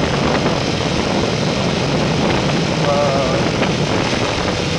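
Steady rush of wind and engine noise from a motorcycle riding at speed. A brief snatch of voice comes through about three seconds in.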